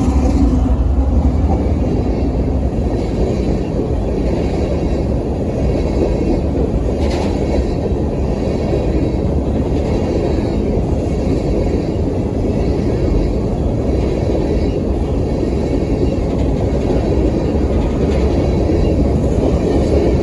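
A train rolling past close by: a loud, steady rumble of wheels on the rails, with the last of its horn note cutting off right at the start.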